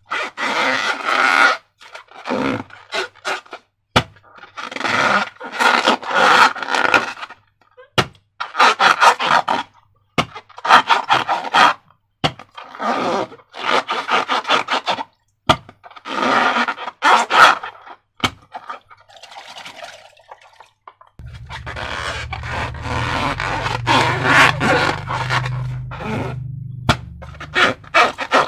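Slime being squeezed and worked by hand, squelching and crackling in bursts of a second or two with short pauses between. A low rumble joins about two-thirds of the way through.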